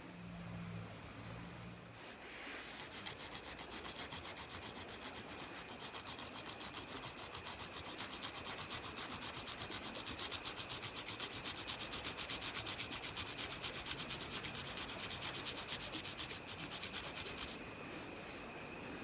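Rapid, even scraping strokes, several a second, starting about two seconds in, growing louder, and stopping a second or two before the end.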